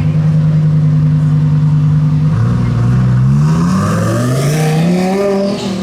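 Car engine holding a steady note, then accelerating hard from about halfway through, its pitch rising, before easing off near the end.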